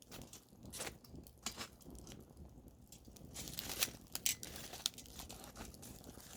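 Campfire wood burning, crackling with irregular snaps and a few sharper pops a little past the middle.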